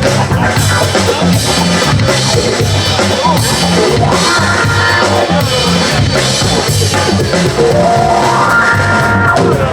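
Live band playing an instrumental passage: drum kit and bass keep a steady beat, with rising melodic runs about four seconds in and again near the end.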